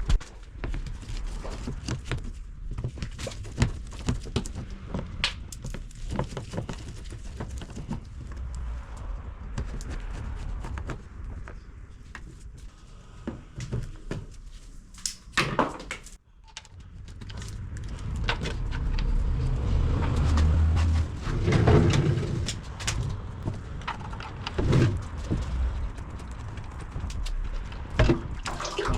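Irregular clicks, clanks and knocks of hand tools and parts being handled during a car's oil change, over a low rumble, with a louder spell of rumbling and scraping about two-thirds of the way through.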